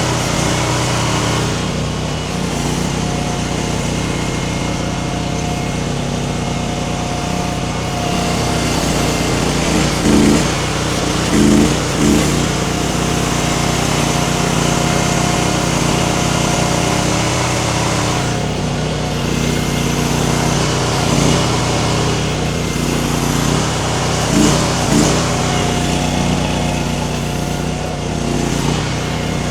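Mini skid steer engine running steadily while the machine works its grapple at pulling a tree, with a few brief louder surges as it takes the load.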